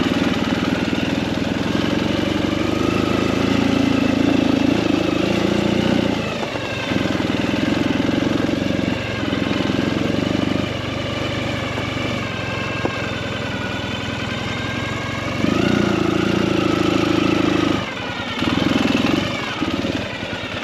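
Motorcycle engine running while riding, its sound swelling and dropping several times.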